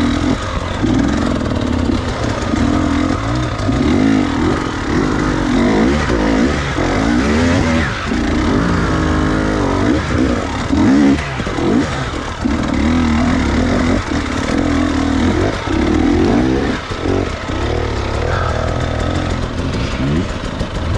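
Enduro dirt bike engine revving up and down over and over, the pitch rising and falling every second or two as the throttle is worked.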